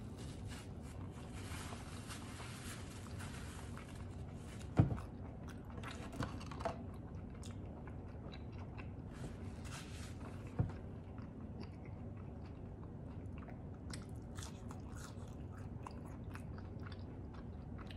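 Mouth sounds of someone chewing a bite of chicken sandwich, with faint small clicks over a steady low room hum. A sharp knock about five seconds in is the loudest sound, with two smaller ones soon after and another near eleven seconds.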